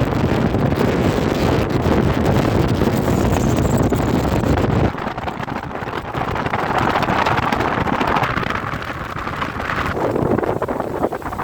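Wind buffeting the microphone over the running of a motorboat underway on the water. The heavy low rumble eases about halfway through, leaving a lighter rushing noise.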